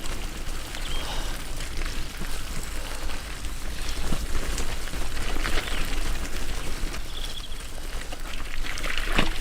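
Bicycle tyres rolling over a wet, muddy trail: a steady crackling hiss with a few sharp knocks from bumps, over a low steady rumble.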